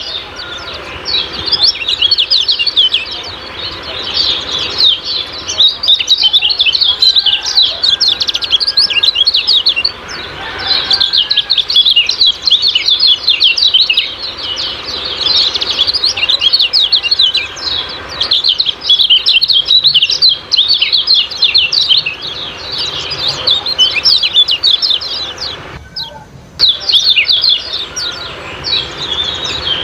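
Kecial kuning (yellow white-eye) singing its rapid 'ciak-ciak' chirping song: dense, high, twittering notes in long runs with short breaks, the longest break near the end.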